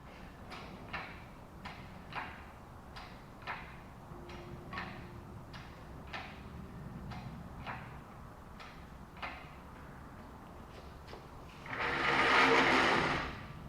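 About a dozen light, irregular clicks and knocks, then a louder rough scraping noise lasting about a second and a half near the end: handling noises from the work of pulling an engine.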